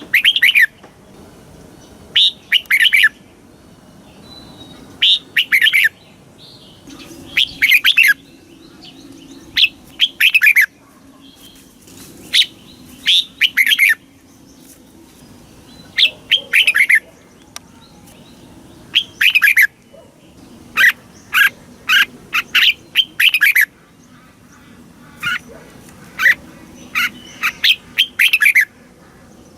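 Red-whiskered bulbul singing: short, quick phrases of bright whistled notes every two or three seconds, coming faster and closer together near the end.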